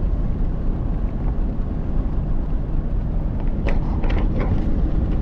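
Steady road and engine noise heard from inside a moving vehicle, with a few faint short sounds about three-quarters of the way through.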